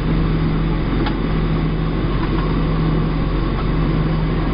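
Steady cabin noise of a Boeing 737-700 with its CFM56-7B turbofan engines running: an even rush of engine and airflow noise with a steady low hum, and a faint click about a second in.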